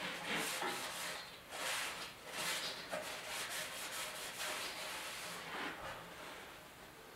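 A string of irregular hand rubbing strokes over a surface, fading out near the end.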